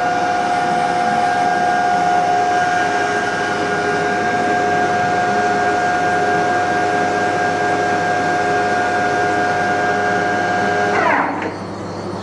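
Gate Eclipse ECL-360 CNC lathe with its spindle running at speed, a steady high whine over machine noise. Near the end the whine drops sharply in pitch and the sound gets quieter as the spindle slows down.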